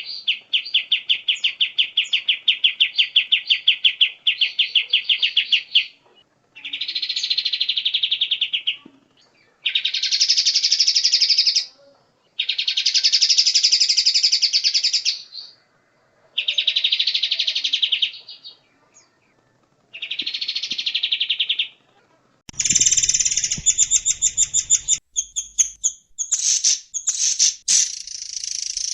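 A songbird repeating rapid pulsed trills in phrases of a few seconds, with short pauses between them, recorded as a training track for contest birds. Near the end the track cuts to a different bird giving quick sharp notes over a low rumble.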